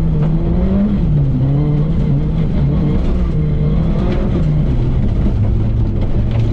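Volkswagen Golf 3 GTI rally car's four-cylinder engine heard from inside the cabin, revving hard, its pitch climbing and then dropping several times at gear changes and lifts, over steady tyre and gravel noise.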